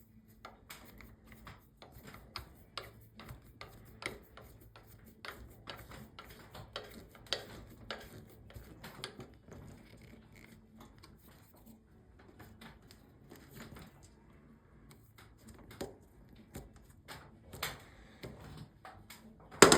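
Irregular small clicks and light knocks of screws being turned in by hand with a screwdriver at the back of a mirror frame, a louder knock near the end.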